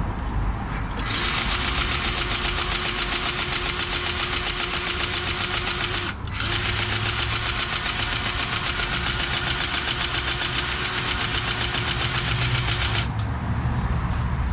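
Powered grease gun pumping grease into a truck's grease points: its motor whines with a fast even pulse for about five seconds, stops briefly, then runs about seven seconds more. A steady low rumble sits underneath.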